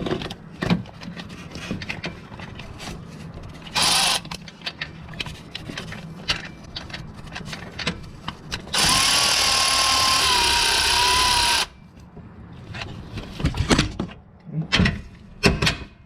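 Cordless power tool running in two bursts: briefly about four seconds in, then for about three seconds in the middle with a steady motor whine. Metal tools click and clank in between.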